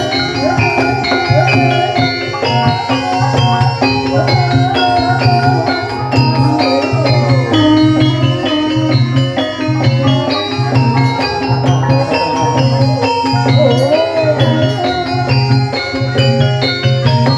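Ebeg accompaniment music: an ensemble of mallet-struck gamelan-type instruments playing dense ringing notes over a steady low beat, with a singing voice gliding and wavering above them.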